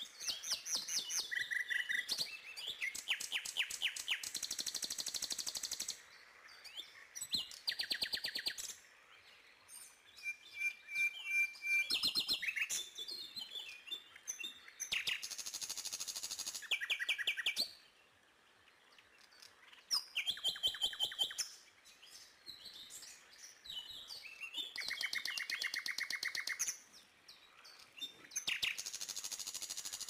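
Birds calling in repeated bursts of rapid, high trills, each lasting a second or two, with short pauses between.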